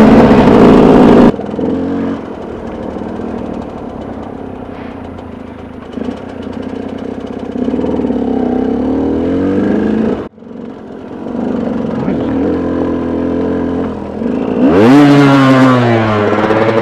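Motorcycle engine running under way, its pitch rising and falling with the throttle. Near the end it revs up sharply and falls back, which the rider puts down to hitting neutral at the wrong time.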